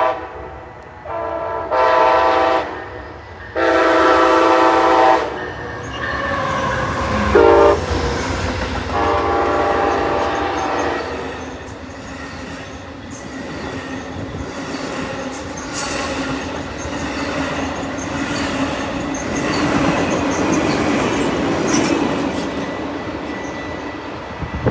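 Locomotive horn sounding the grade-crossing signal, two long blasts, a short one and a long one, over the first ten seconds or so. Then the train passes with a steady rumble and rail clatter and a thin, steady wheel squeal.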